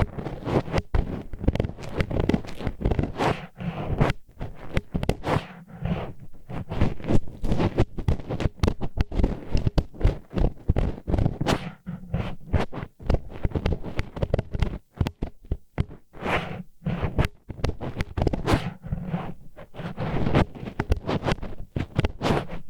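Disposable wooden chopsticks scraping and rubbing against the ear wall in ASMR ear cleaning: a dense, grinding run of rough strokes, several a second, broken by brief pauses.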